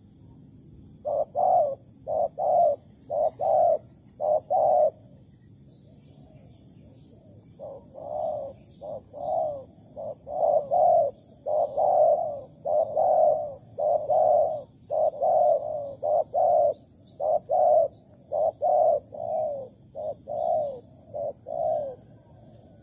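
Spotted dove cooing: repeated low coo notes in phrases, a short run of about seven notes, a pause of about three seconds, then a longer run, with faint steady high-pitched buzzing behind.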